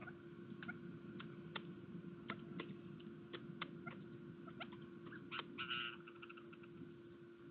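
Birds at a garden feeder: a scatter of short sharp ticks and brief high chirps, with a quick burst of chirping about five and a half seconds in, over a steady low electrical hum.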